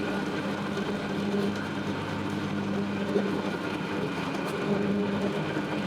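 A motor running steadily: a low, even hum with a rattling noise over it.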